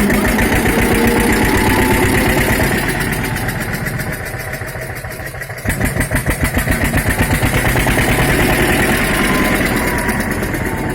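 Tractor's diesel engine running with a steady, rapid firing pulse. It eases off for a moment just past the middle, then picks up again.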